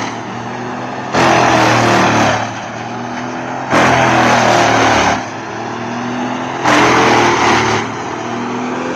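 Large industrial wood chipper running under load. Its engine drones steadily, and three loud surges of shredding noise come at about one, four and seven seconds in, each lasting a second or so, as the blades chew into the log and blow out chips.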